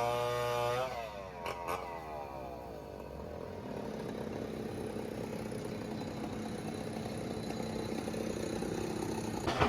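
Heavy earth-moving machine's diesel engine running under high revs, then dropping off about a second in, followed by steady working noise. Two short knocks come soon after the revs fall, and a sharp knock sounds near the end.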